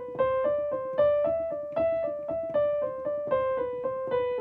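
Piano playing a right-hand finger exercise on the first five notes of the A minor scale, A to E, in quick single-note triplet figures that climb step by step to E and then work back down toward A.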